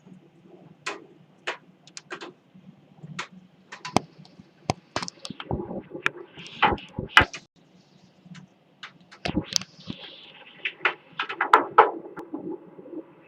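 Hailstones striking a hard surface: irregular sharp knocks and clicks, scattered at first and coming thicker in clusters about halfway through and again near the end.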